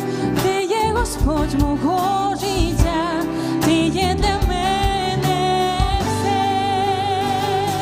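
Live worship band playing a song with a singer, drums and bass; the voice holds a long note with vibrato through the second half.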